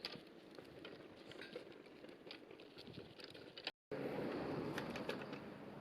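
Light pattering steps with small clicks on the ground as a Shiba Inu walks in a dog wheelchair. The sound cuts out for a moment about four seconds in and comes back louder.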